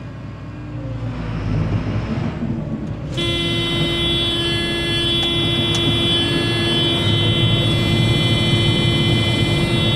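John Deere 9500 combine's diesel engine running, its rumble building from about a second in as the separator is engaged. About three seconds in, the cab's grain-tank-full warning comes on as a steady electronic tone and holds; the tank is empty, and the alarm is set off by the fill sensor being pushed.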